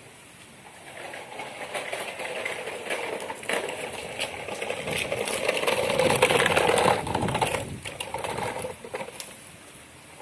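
Sand and a plastic toy dump truck being handled together: a grainy scraping rustle with many small clicks that swells over several seconds and then fades.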